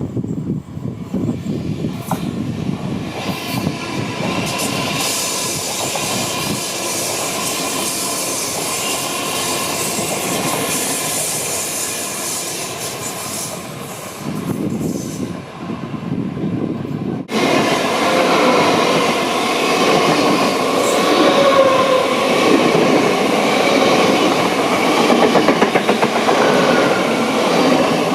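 Electric passenger trains running on track, with wheels clattering over the rail joints. The sound changes abruptly about 17 seconds in to a louder stretch carrying steady high tones.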